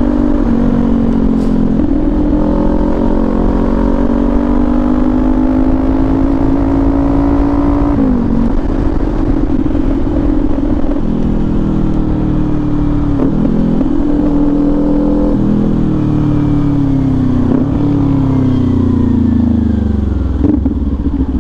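Kawasaki Ninja 400 parallel-twin engine running through an SC Project aftermarket exhaust while riding. The engine note climbs slowly, dips briefly three times as the revs drop and recover, then falls steadily near the end as the bike slows.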